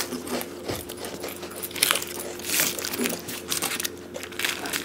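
People chewing crunchy biscuits: a string of soft crunches and mouth clicks, with a few short crinkly rustles, over a faint steady hum.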